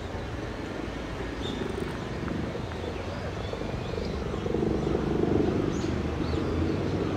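Steady low rumble of distant engine noise, swelling louder about halfway through, with a few faint high bird chirps over it.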